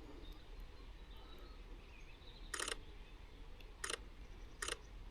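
Camera shutter firing in three short bursts, the first a little longer, about halfway through and then twice near the end, from a Sony A1 mirrorless camera taking bird photos.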